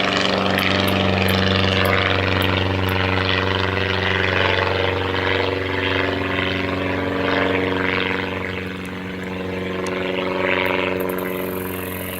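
Homebuilt light airplane's piston engine and propeller running at takeoff power: a steady low engine hum with propeller rush above it that swells and fades, dipping about nine seconds in and rising again shortly after.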